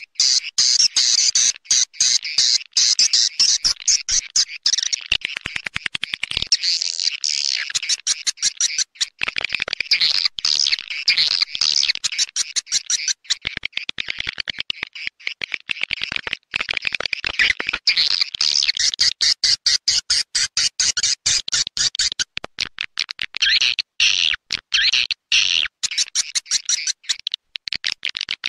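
Recorded swiftlet call sound: dense, rapid chirping and twittering of swiftlets broken into many sharp clicks, played as a lure to draw swiftlets into a nesting house.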